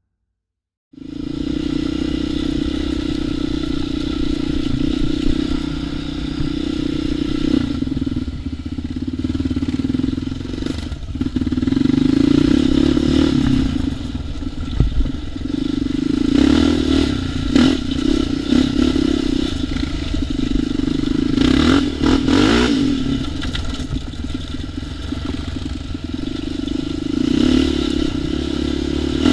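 ATV engine running under throttle while riding, its pitch rising and falling as it revs, with rattling from the machine. It starts about a second in.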